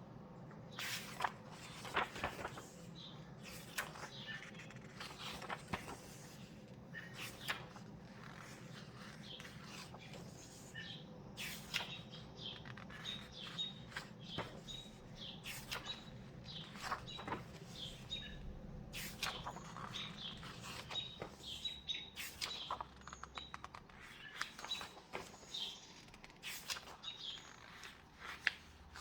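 Paper handling: a book's pages being turned and rustled, with sharp soft flaps every second or two. Small birds chirp briefly and repeatedly in the background.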